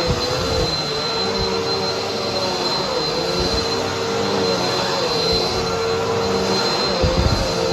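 Vacuum cleaner running steadily, with a constant motor whine over a rushing airflow. The whine dips in pitch briefly about three times as the machine is pushed and loaded, with a few low knocks near the end.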